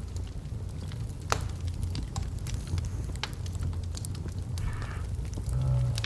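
Wood logs burning in a fireplace: a steady low rumble of flames with scattered sharp crackles and pops, one louder pop about a second in, and a brief hiss about five seconds in.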